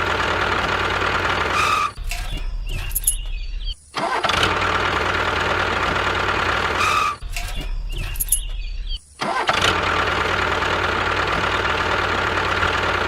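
Mini tractor's motor running steadily with a held whine, broken twice by short changes in the sound about two and seven seconds in.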